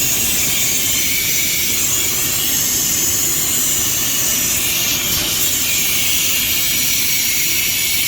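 Container truck's air suspension letting air out with a steady hiss, over the low rumble of the idling truck, as the truck lowers from under its container.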